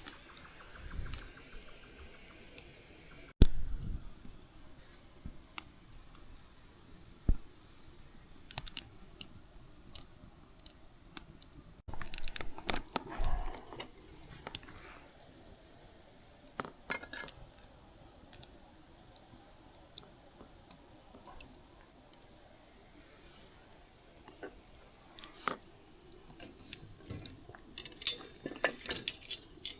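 Gear being handled: scattered clinks, knocks and rattles of small metal and glass items, with one sharp knock a few seconds in and a busier run of clinks near the end.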